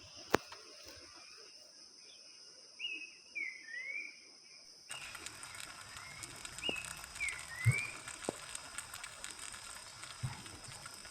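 Forest ambience: a steady high-pitched insect drone, with a bird calling a short phrase of three quick whistled slurs, twice. A few sharp knocks, the loudest about 8 s in.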